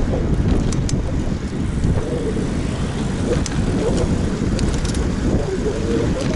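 Wind buffeting an action camera's microphone over the steady rumble of a Bianchi Nirone 7 road bike riding on pavement, with a few short, sharp clicks.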